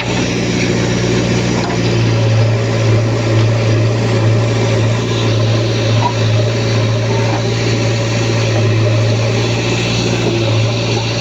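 Heavy machinery's diesel engine running steadily at an even pitch, with a few faint clicks and knocks.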